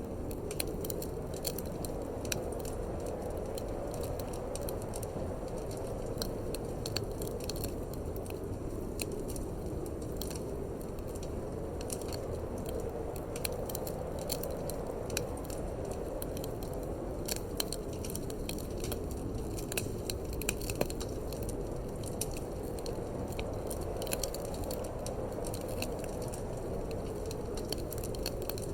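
Wood fire in a fireplace crackling, with frequent irregular sharp pops and snaps over a steady low rushing noise of wind.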